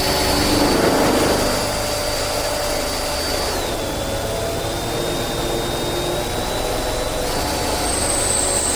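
Electric drill running continuously to drill a bolt hole, with a steady high whine that drops in pitch about three and a half seconds in and comes back up near the end.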